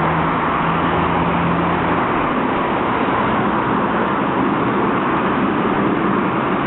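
Steady city street traffic noise, with a low steady hum from a vehicle that stops about two seconds in.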